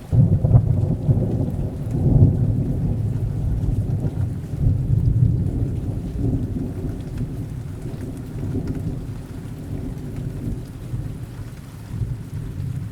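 Rolling thunder over steady rain: a deep rumble that starts suddenly, swells twice in the first few seconds and then slowly dies away beneath the hiss of the rain.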